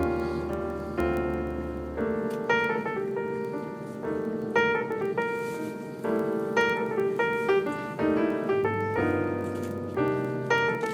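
Piano music: notes played one after another in a steady, moderate rhythm, with sustained bass notes in the first two seconds.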